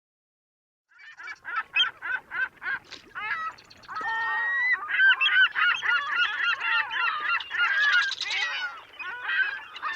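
A flock of birds calling: short pitched calls repeated several times a second start about a second in, then many calls overlap from about four seconds in.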